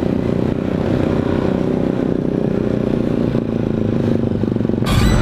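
Honda Supra motorcycle's single-cylinder four-stroke engine running steadily while riding. A louder burst of noise comes near the end.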